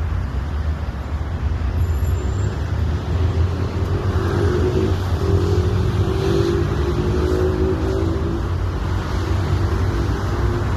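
Steady low rumble of city road traffic, with a passing vehicle's engine hum swelling through the middle and fading near the end.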